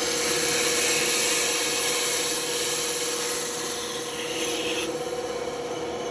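Band saw running with a steady hum while its blade cuts a workpiece, a hissing rasp that eases off about five seconds in.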